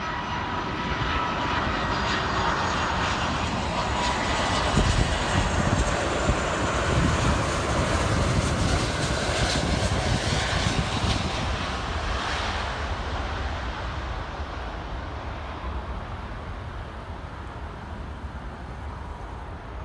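Heavy jet airliner passing close by, its engine noise swelling to its loudest around the middle and then slowly fading away, with a faint whine early on.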